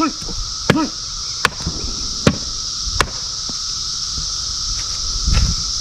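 Cicadas droning in a steady chorus, with several sharp clicks or taps in the first three seconds and a low thump near the end.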